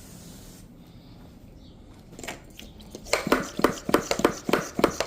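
Pump-up pressure sprayer hissing as it sprays, stopping about half a second in. About three seconds in, a quick, regular run of short sharp sounds starts, roughly four a second, louder than the spray.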